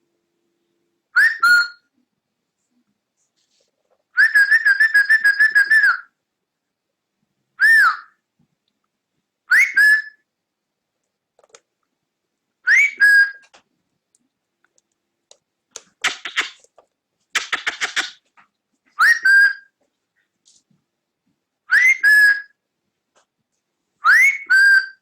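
Cockatiel whistling: a series of short calls, each a quick rising sweep followed by a clipped lower note, repeated every two to three seconds, with a rapid warbled trill a few seconds in and a stretch of raspy chatter about two-thirds of the way through.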